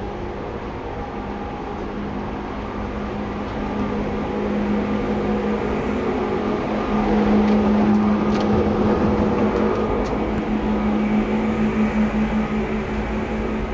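Running noise of a Seibu 2000 series electric multiple-unit train, with a steady low hum over wheel and track rumble. It grows louder from about four seconds in and is loudest around seven to eight seconds.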